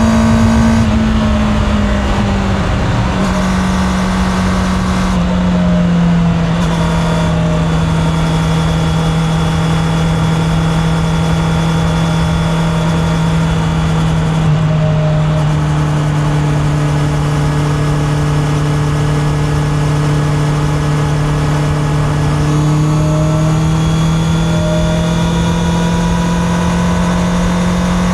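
Honda CB650R's inline-four engine running at a steady cruise over a steady rush of noise. Its pitch eases down over the first few seconds, holds level, and rises a little about 23 seconds in.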